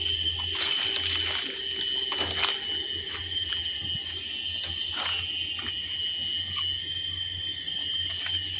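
Steady, high-pitched drone of insects such as cicadas, several held tones at once with no break, with a few faint clicks scattered through it.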